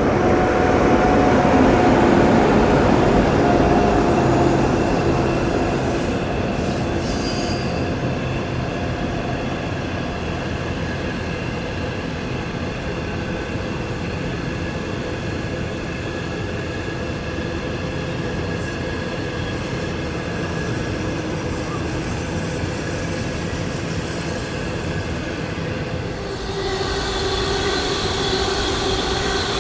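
Train running past on the line: a steady rumble of wheels on rail with a whine, loudest in the first few seconds. Near the end a stronger, higher whine sets in.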